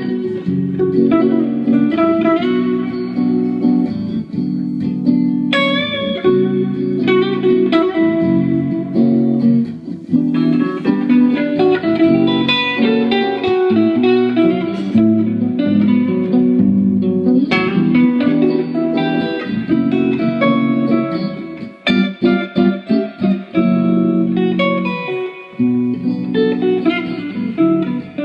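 Instrumental guitar break in a rock and roll song, with no singing. About three-quarters of the way through, the playing turns to short, choppy stabs.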